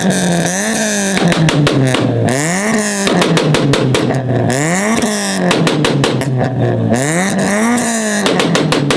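Mitsubishi Eclipse (DSM) engine revved hard over and over, its pitch climbing and dropping about once a second. Rapid crackling pops come at the top of several revs.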